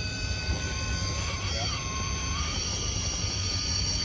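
Electric motor and gear drivetrain of a radio-controlled rock crawler whining at crawling speed, its pitch stepping up and down with the throttle, over a steady low rumble.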